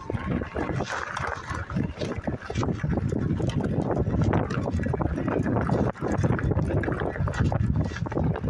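Wind buffeting a body-worn microphone while riding: an uneven, rumbling rush with many small irregular pops.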